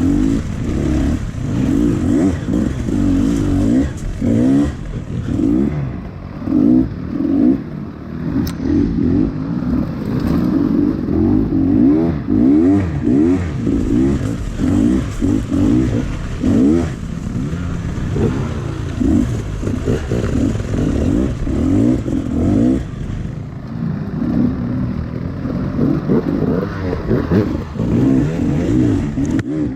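Honda CRF110 pit bike's small four-stroke single-cylinder engine revving up and down over and over as the throttle is worked, its pitch rising and falling many times in quick succession.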